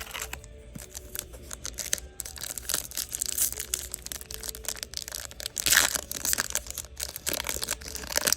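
Trading cards being handled and flipped through: a run of small clicks and rustles of card stock, with a louder swish about six seconds in and another near the end.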